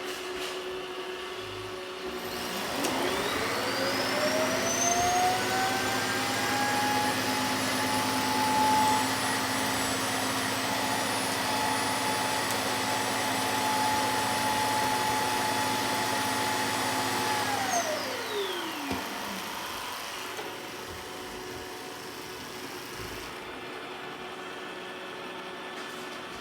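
Robot vacuum's suction motor starts up with a rising whine, runs at a steady pitch for about fifteen seconds, then winds down.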